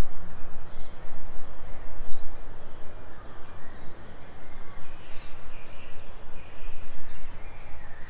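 Forest birds giving faint, short chirps and calls, over a louder, even rushing noise with a deep rumble.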